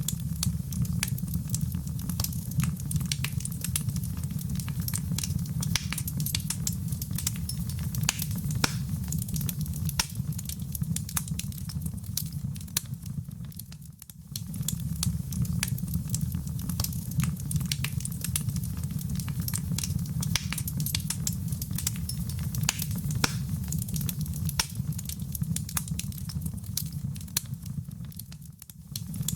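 Wood fire crackling, with many sharp crackles over a steady low rumble of the flames. The sound dips briefly twice, about halfway through and near the end.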